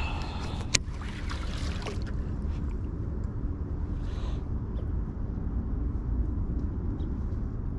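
Steady low rumble of wind buffeting the microphone, with some rustling and one sharp click in the first two seconds.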